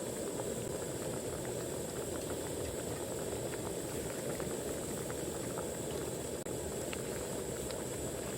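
A pot of food bubbling at a steady boil, a dense bubbling hiss with fine pops, broken by a momentary dropout about six seconds in.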